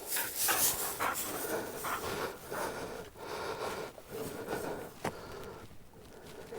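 German shorthaired pointer panting in quick, noisy breaths, with a single sharp click about five seconds in.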